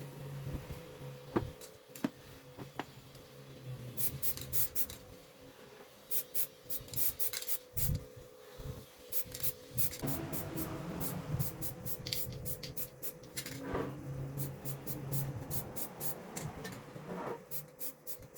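Hand scraping and rubbing in many short, irregular scratchy strokes, over a faint steady hum.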